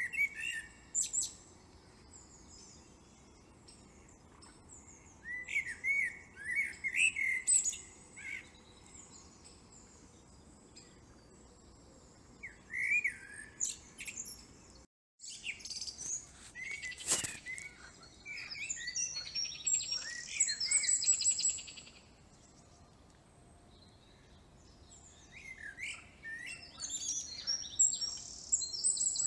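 Small birds singing and chirping in short, scattered phrases, with a fast trill about two-thirds of the way through. The sound cuts out completely for a moment about halfway.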